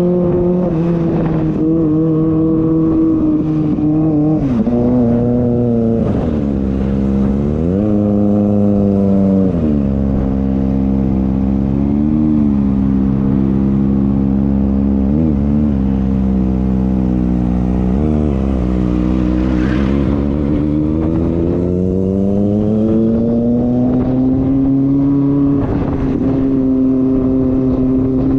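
Kawasaki ZX-25R's 250 cc inline-four engine running at high revs under way. Its pitch dips sharply and recovers about five times, then climbs steadily for several seconds past the middle before holding high.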